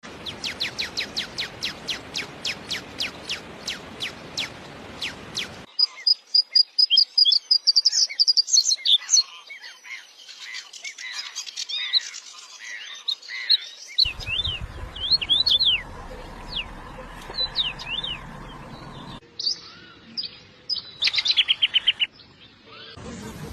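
Songbirds singing: several different birds' songs heard one after another, each cut off abruptly as the next begins. It opens with a fast run of repeated high notes, about four a second, followed by loud varied chirps and whistles, and ends with a quick trill.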